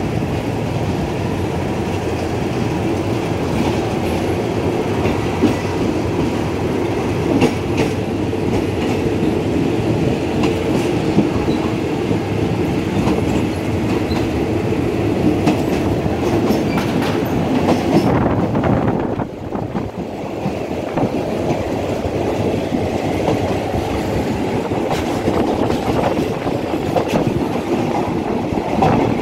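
Train running along the track: a steady rumble with the clatter of wheels over the rails.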